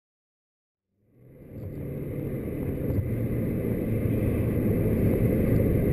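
After about a second of silence, the cabin sound of a 2014 Chevy Cruze Diesel at highway speed fades in: its 2.0-litre single-turbo diesel engine drones steadily under tyre and road noise, growing slightly louder.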